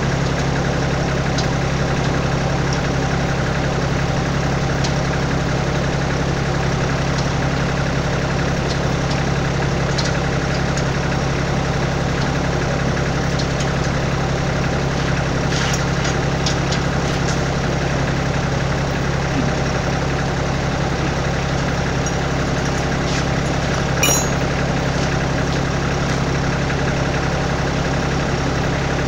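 Kioti tractor's diesel engine idling steadily, with a few light clicks about halfway through and again near the end.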